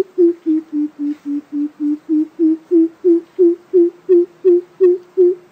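Coucal calling: a long, even series of deep hollow hoots, about three a second, the lure call used to draw coucals to a trap.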